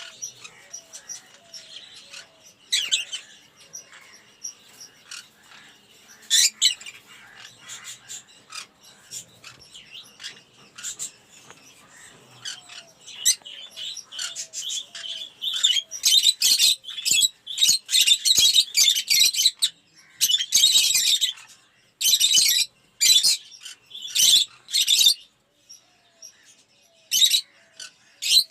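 A flock of lovebirds chattering with many rapid, shrill chirps. The chirping gets denser and louder about halfway through, with brief pauses near the end.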